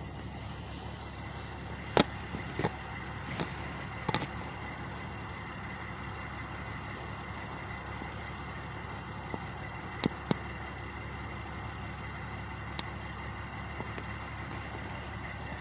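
Two trucks idling steadily with a low, constant hum. A few sharp clicks or knocks cut through, about two seconds in, near four seconds and around ten seconds, with a short hiss in between.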